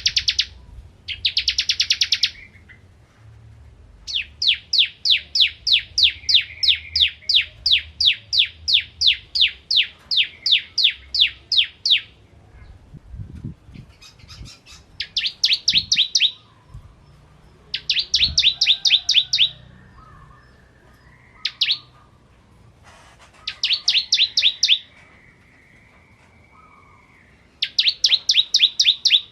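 Bar-winged prinia (ciblek kristal) singing: trains of sharp, high, rapidly repeated chirps. One long run of about thirty notes comes at roughly three or four a second, with shorter bursts of the same note before and after it.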